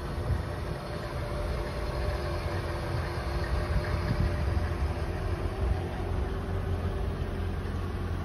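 Mercedes-Benz S55 AMG's 5.4-litre supercharged V8 idling steadily, a low even hum.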